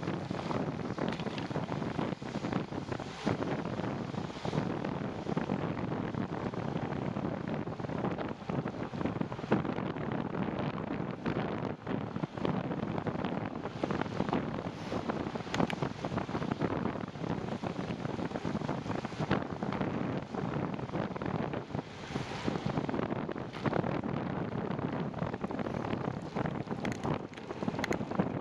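Wind rushing over the microphone while cycling: a steady rumbling noise, broken all through by short buffets and knocks.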